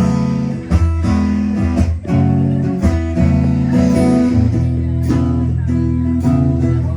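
A band playing a blues tune, led by strummed guitar over a steady low bass line, with no singing.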